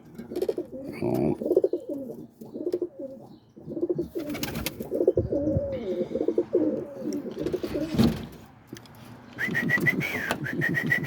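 Roller pigeons cooing over and over in a small loft, wavering low calls overlapping each other. A couple of sharp knocks come about four and eight seconds in, and a thin high squeal near the end.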